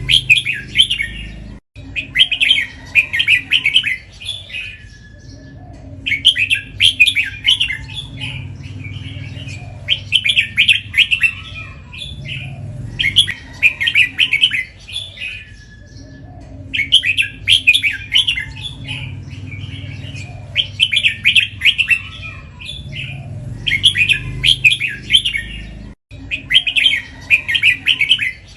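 Red-whiskered bulbul singing loud, short chattering song phrases, one every two to three seconds. It repeats its phrases in the doubled style prized in Thai competition birds.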